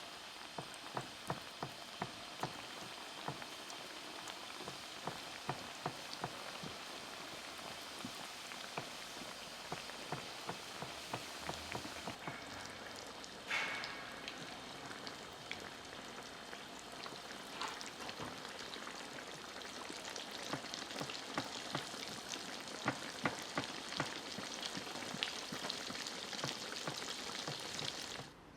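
Piroshki buns frying in hot vegetable oil: a steady sizzle with dense crackling and frequent small pops. It cuts off abruptly near the end.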